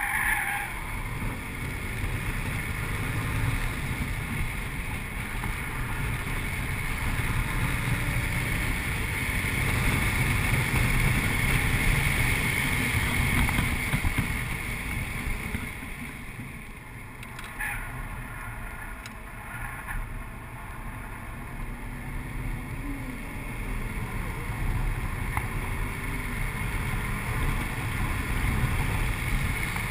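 Audi RS4's 4.2-litre V8 driving hard on track, heard from inside the cabin under heavy wind and road noise. The engine note builds for about a dozen seconds, drops away briefly past the middle with a few clicks, then builds again.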